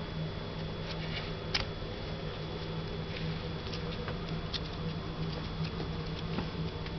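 Toy poodle puppy moving about, making scattered light clicks with its steps, over a steady low hum.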